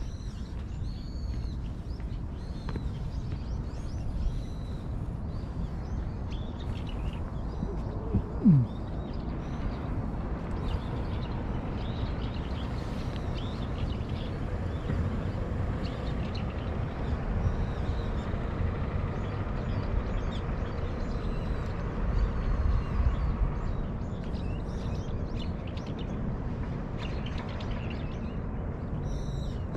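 Birds chirping with short, high calls again and again over a steady low rumble. A brief falling tone about eight seconds in is the loudest moment.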